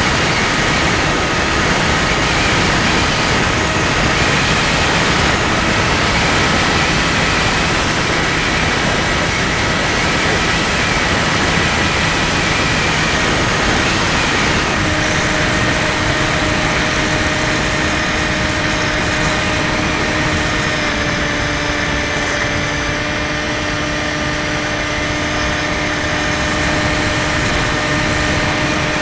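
Skywalker 1680 RC plane's electric motor and propeller running steadily in flight, a constant whine over heavy wind rush; a lower steady tone joins about halfway through.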